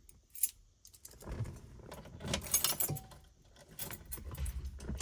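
Keys jangling in a few short bursts.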